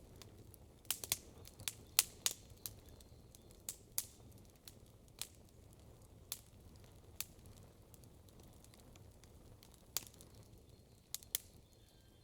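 Wood campfire crackling: sharp, irregular pops and snaps, thickest in the first few seconds, with scattered single pops after and a few more near the end.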